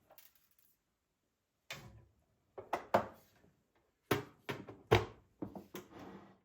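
Household objects being handled: a run of short knocks and clunks, about nine of them, starting about two seconds in, with the loudest near the middle.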